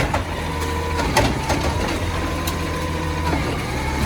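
Recycling truck running with its automated side arm lifting and emptying a full curbside recycling can. Under the steady engine hum, a whine dips in pitch a couple of times, and several sharp clanks come from the can and the arm.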